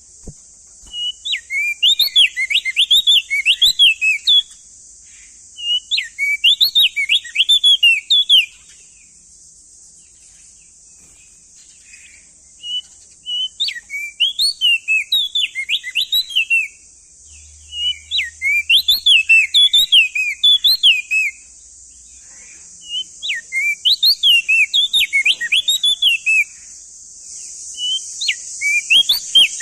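Opior jambul (crested white-eye) singing: phrases of fast, jumbled chirping notes lasting a few seconds each, repeated about six times with short pauses. A steady high hiss runs underneath.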